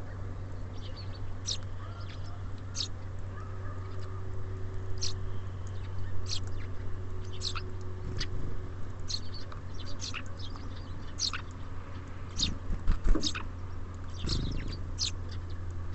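Small birds at a feeder giving many short, high chirps over a steady low hum, with a few dull knocks near the end.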